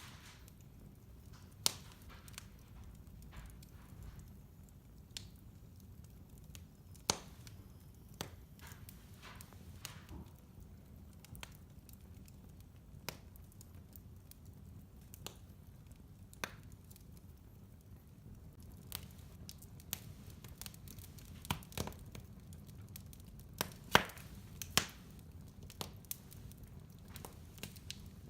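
Wood fire burning in a fireplace: a low steady rumble of the flames with irregular sharp crackles and pops, the loudest clustered a little past the three-quarter mark.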